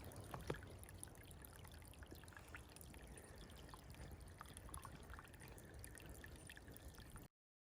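Near silence: faint background hiss with scattered small ticks, cutting off abruptly near the end.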